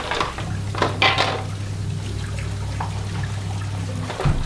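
Water sloshing and splashing as gas stove parts are washed by hand in detergent water, loudest about a second in, with a knock near the end over a steady low hum.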